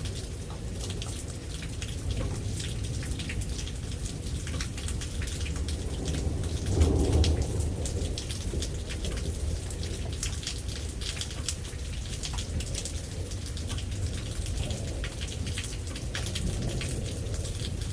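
Steady rain falling, with many individual drops striking close by, and a short low rumble of thunder about seven seconds in.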